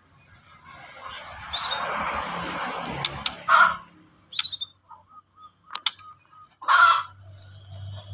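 Caged pastol songbird calling: a string of short sharp chirps and calls, a few of them loud, the first half covered by a rushing noise.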